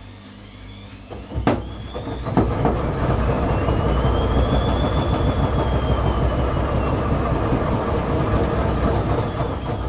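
ATLANT 70C1010 washing machine running: a couple of clicks, then the drum motor starts with a whine that rises in pitch, peaks and falls again, over a loud rumble of the turning drum.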